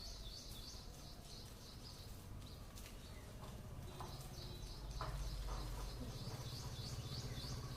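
Faint, scattered bird chirps over a low steady hum, with a quick, evenly repeated high chirping near the end.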